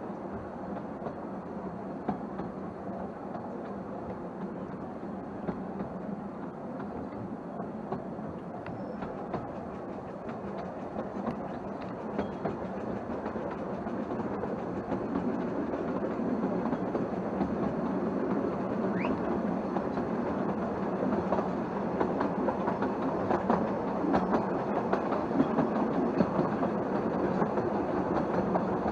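Narrow-gauge train running along the track, heard from on board a carriage: a steady rumble of the wheels with clickety-clack over the rail joints, growing louder through the second half.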